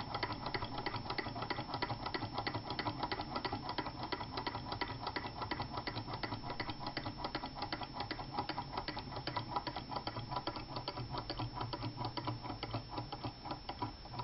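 Two small model Stirling hot-air engines with lightweight wooden working pistons running, giving a fast, steady mechanical clicking.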